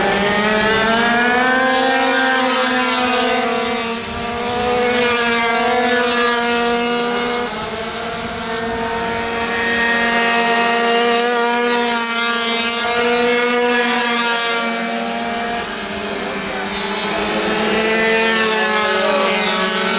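Several minimoto pocket bikes' small two-stroke engines running at high revs while racing, their high buzzing pitch wavering slightly up and down, with a few brief lulls.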